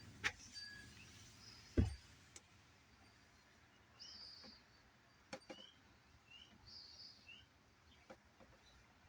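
Faint bird chirping: short rising chirps about once a second from about four seconds in, after a couple of light knocks in the first two seconds.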